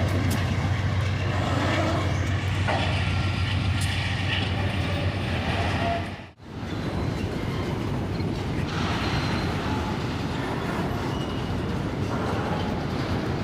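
Freight train passing on the track: a steady low locomotive drone over the rumble of rolling wagons. About six seconds in, the sound drops out abruptly for a moment, then picks up again as a rushing rumble of rolling wagons without the drone.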